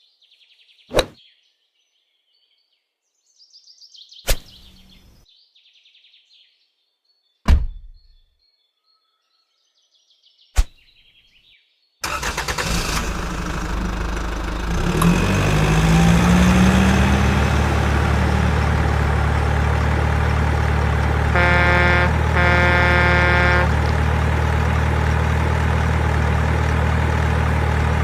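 Four sharp knocks, a few seconds apart, over faint birdsong. Then a vehicle engine cuts in suddenly and runs steadily, with a rising whine soon after it starts and two short horn beeps partway through.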